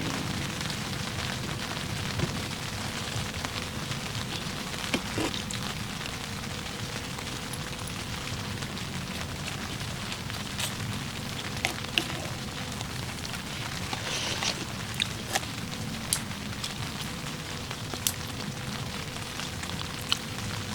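Steady rain, with scattered sharp taps of single heavy drops, more of them in the second half.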